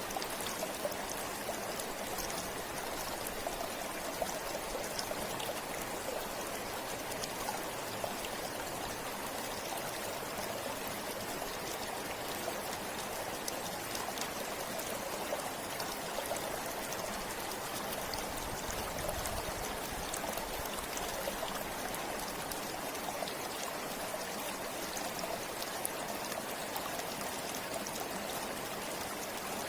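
Forest river or stream flowing steadily over rocks, a continuous rushing with small splashes and trickles.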